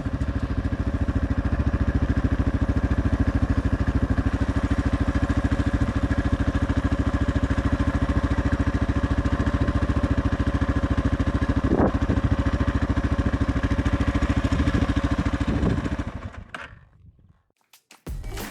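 Suzuki DR650 single-cylinder motorcycle engine running at a steady, even pace with no change in pitch. It stops suddenly about sixteen seconds in.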